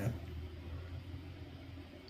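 Faint, steady low rumble of a large truck's engine running, over a light background hiss.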